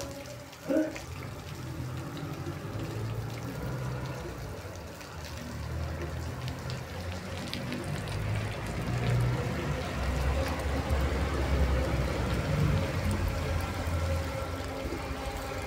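Steady rain falling on a street, with running water, and a low rumble that grows louder in the second half. A short, loud sound comes just under a second in.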